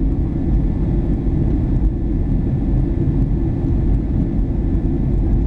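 Cabin noise inside a Boeing 737-800 in flight: a steady low rumble of the engines and rushing air, with a faint steady whine above it.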